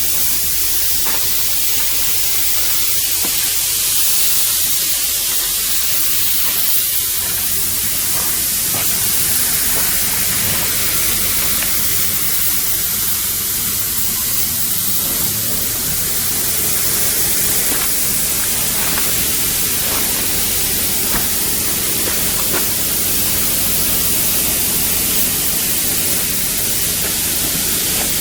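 Steady, loud hiss that stays even throughout, with no rhythm and a few faint ticks.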